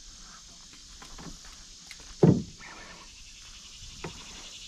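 Steady high-pitched chorus of insects such as crickets, with one brief loud low sound about two seconds in.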